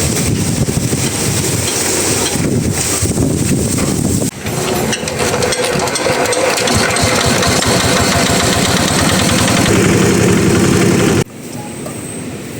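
Old Yamaha generator's small engine running steadily after its restoration. There is a brief dip about four seconds in, and the sound cuts off abruptly about eleven seconds in, leaving a quieter background.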